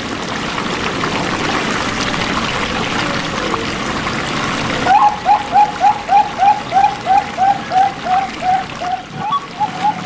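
Running water trickling for about five seconds, then a bird calling a fast, even series of short hooked notes, about three a second, to the end.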